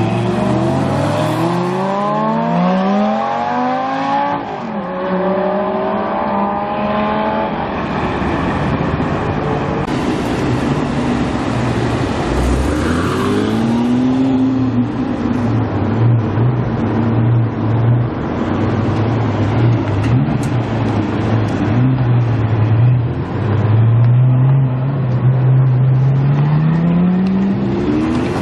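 Supercar engines revving and accelerating. Repeated rising sweeps in pitch come early on, then a short rev blip, then a steady, pulsing low engine note that climbs in pitch again near the end as one car revs up.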